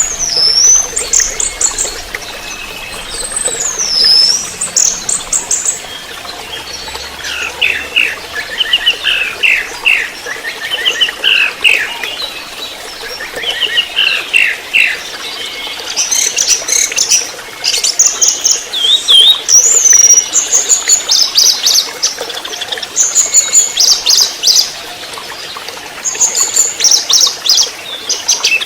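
A juvenile 'trotol' orange-headed thrush (anis merah) singing a long, unbroken run of varied phrases. High whistles slide down and back up between fast rattling trills, and clusters of quick, lower chattering notes fill the middle stretch.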